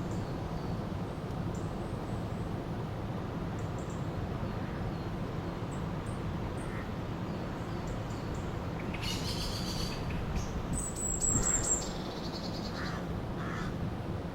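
River water flowing steadily, with birds calling over it. Scattered faint chirps, then a louder run of calls about nine seconds in that includes a brief high trill.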